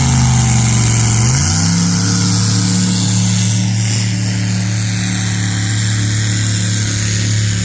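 Supercharged small-block Chevy V8 running on alcohol, idling. The engine note dips slightly and settles about a second and a half in, then holds steady.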